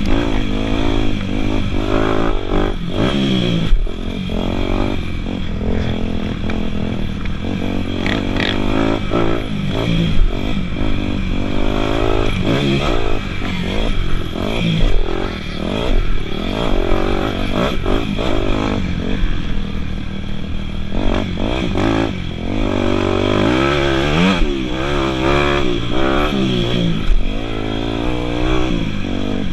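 Dirt bike engine revving hard, its pitch climbing and dropping again and again as it is ridden through the gears, with occasional clatter.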